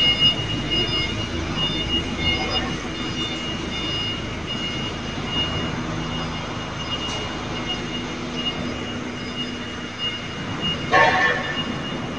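Factory floor noise on a tractor production line: a steady machinery hum with high electronic beeping tones that come and go, and a short clatter about eleven seconds in.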